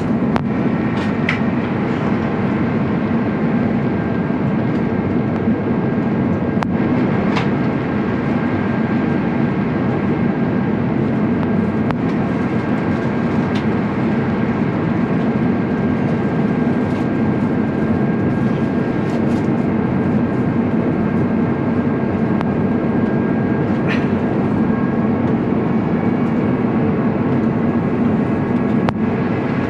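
Steady cabin noise inside an Airbus A350-900 in its climb after takeoff: the rumble of its Rolls-Royce Trent XWB engines at reduced climb thrust with airflow, and a thin steady high tone over it. A few faint clicks.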